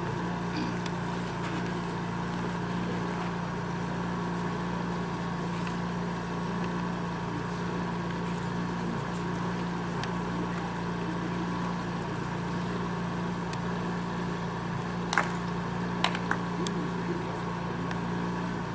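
A steady mechanical hum with a fixed low drone, and a few sharp clacks near the end.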